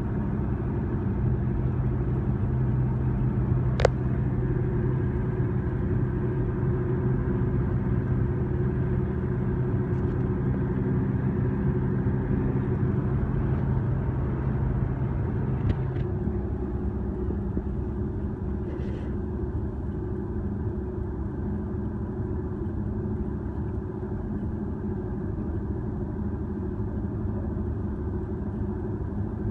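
Steady engine and road rumble of a car heard from inside the cabin while driving. A sharp click comes about four seconds in and another about halfway through, after which the engine's hum shifts and the noise eases a little.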